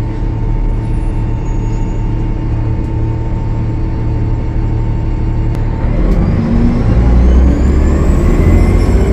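Cummins ISL9 diesel engine of a 2013 Gillig Low Floor transit bus running steadily, then pulling harder about six seconds in as the bus accelerates. A high turbocharger whistle rises in pitch as it spools up.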